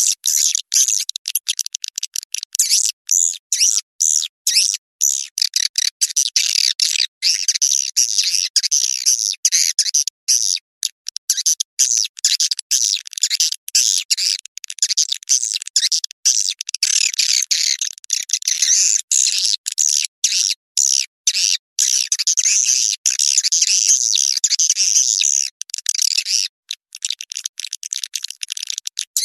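Recorded swiftlet lure call: edible-nest swiftlets twittering in a dense, rapid, high-pitched chatter broken by constant short gaps. It is the calling sound played from swiftlet houses to draw the birds in to roost and nest.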